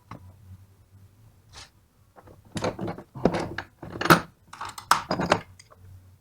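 Small metal tools and alternator parts clinking and knocking against each other and the workbench as they are handled, a quick run of sharp clicks over a faint low hum.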